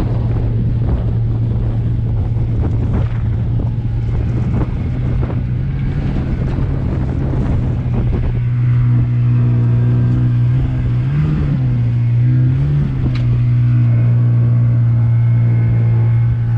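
Motorboat engine running steadily under way, its pitch dipping and rising briefly twice near the end, with wind buffeting the microphone.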